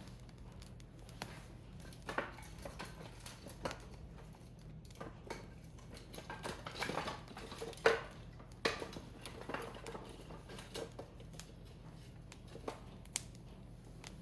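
Burning firewood crackling, with irregular sharp snaps and pops, the loudest about eight seconds in.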